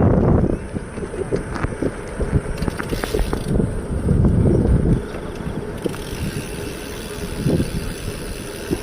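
Wind buffeting the microphone over the rumble and small rattles of a bicycle riding along, with gusts near the start and again about four seconds in.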